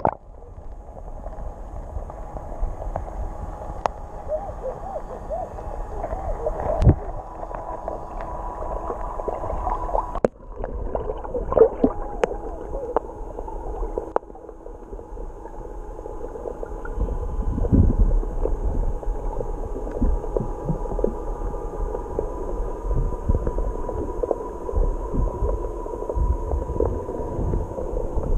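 Muffled underwater sound from a camera held in the sea: gurgling water with low rumbling thumps, scattered clicks and a faint steady hum.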